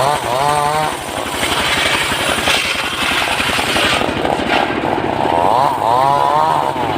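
Engine-driven saw running and cutting mahogany, its engine pitch wavering up and down under load, with a hiss of the cut through the middle.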